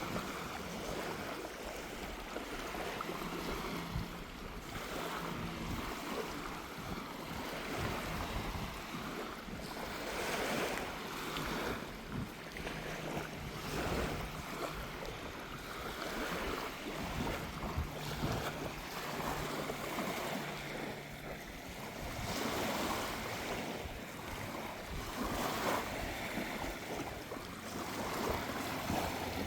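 Small waves washing onto a sandy beach, swelling every few seconds, with sea breeze blowing across the microphone.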